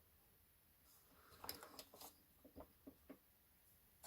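Near silence, with a few faint, short clicks and taps from small parts being handled on the workbench.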